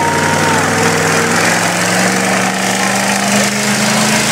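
Engine idling with a steady low drone, its pitch creeping up slightly in the middle.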